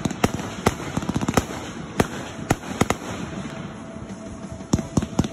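Aerial fireworks bursting, with rapid crackling pops that thin out about three seconds in and pick up again near the end.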